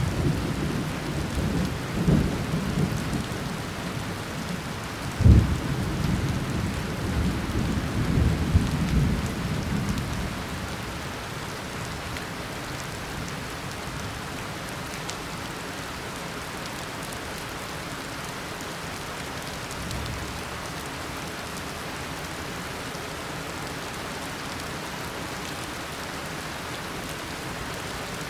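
Heavy tropical rain falling steadily, with rolling thunder rumbling through the first ten seconds or so, including a sharp crack about five seconds in, then dying away to leave only the steady rain.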